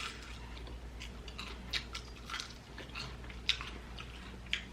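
Close-miked chewing of sauced chicken wings: wet mouth clicks and a few sharper smacks.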